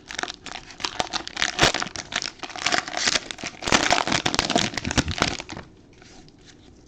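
Wrapper of a 2022 Panini Prestige football card pack being torn open and crinkled in the hands: dense crackling that dies down about five and a half seconds in.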